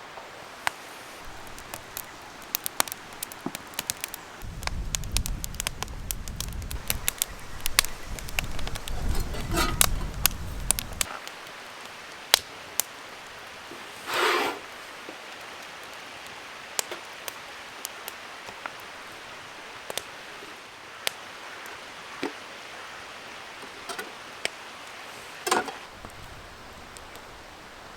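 Thick bacon sizzling in a pure-iron frying pan over a campfire: a steady hiss dotted with many sharp pops and crackles. A low rumble runs for several seconds near the start.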